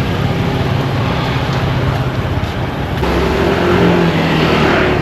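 Motor engine running close by amid street noise. A louder, higher engine note comes in about three seconds in.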